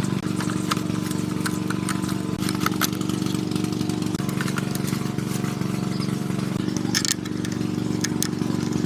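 Small engine idling steadily, with scattered light clicks and taps.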